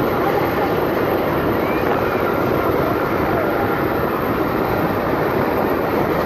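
Steady rumbling noise from inside a vehicle, even and unbroken.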